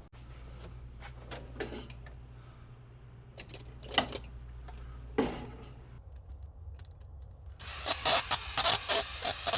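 Metal hand tools working a bolt extractor on a seized tractor bolt: scattered clicks and taps, then a quick run of loud rasping, ratchet-like metal strokes near the end as the bolt is forced to turn. A low steady hum sits underneath and drops away about halfway through.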